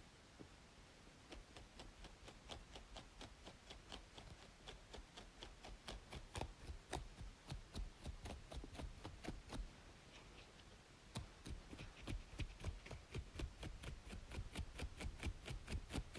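Close-miked scratching on a braided scalp: quick, rhythmic scratching strokes, about four a second, with a short pause about ten seconds in, over a faint steady white-noise hiss.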